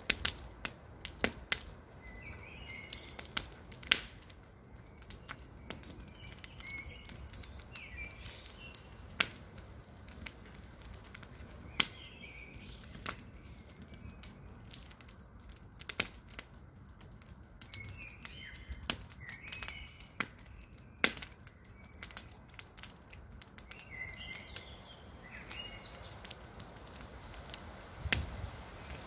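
Campfire crackling, with sharp irregular pops and snaps of burning wood, a few of them much louder than the rest. A bird chirps in short phrases every few seconds.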